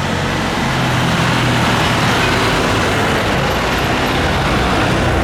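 Jet airliner engines at takeoff power: a loud, steady jet noise with a low hum underneath, swelling slightly in the first second.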